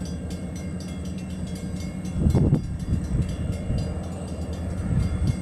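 Freight train's diesel locomotive approaching: a steady low engine drone with rapid, even clicking. There is a brief louder swell about two seconds in.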